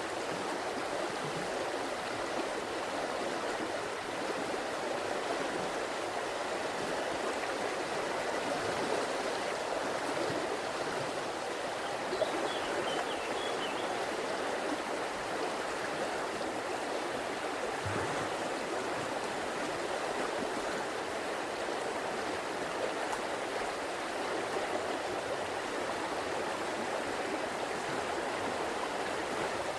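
River water flowing steadily over stones, an even rushing and gurgling babble.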